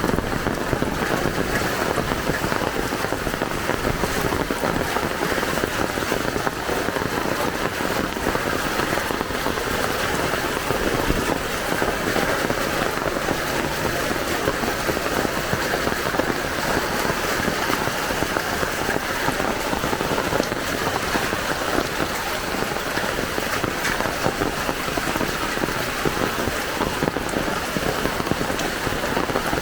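Heavy rain pouring steadily, a dense even patter of drops on hard surfaces.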